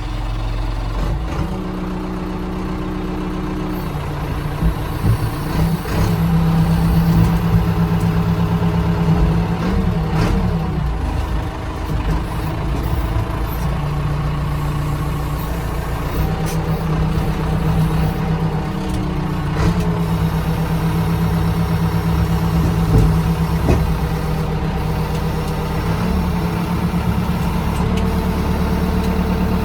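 Backhoe's diesel engine running, its speed rising and falling several times as it works the loader, with a few brief knocks.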